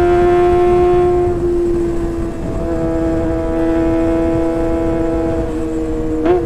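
Kawasaki ZX-25R's 250 cc inline-four engine running through a Sportisi Motorsport SRX aftermarket exhaust, held at high, steady revs with a high, even tone. The pitch drops slightly about two and a half seconds in, and there is a short rev blip near the end.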